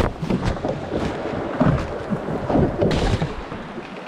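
Water rushing and splashing around a canoe running a rapid, with wind on the microphone and a few sharp knocks or splashes.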